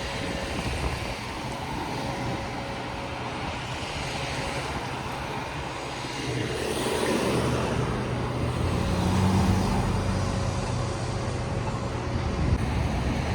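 Steady engine drone and road noise of a motor vehicle, growing louder about halfway through.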